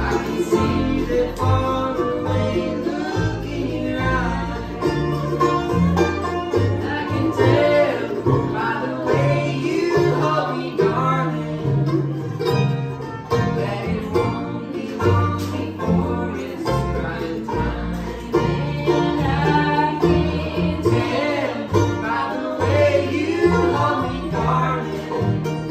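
A bluegrass band playing, with banjo picking and guitar over a stepping low bass line.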